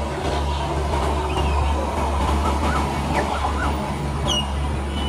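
Steady low rumble of a passenger train moving away along the track. Birds give a few short chirps in the middle and one sharper, higher call near the end.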